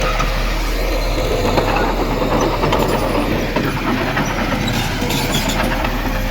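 Bulldozer's diesel engine running steadily under load, with metallic clanking and rattling from its tracks.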